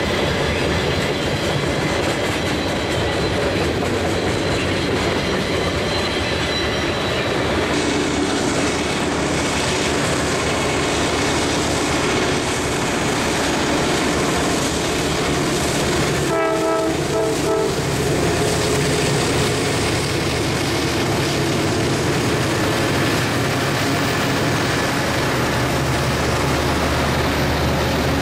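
Freight train rolling past with steady wheel clatter on the rails, then a lashup of diesel locomotives passing with its engines running. Around the middle the locomotive's air horn sounds one chord of several notes for about a second and a half, before more freight cars roll by.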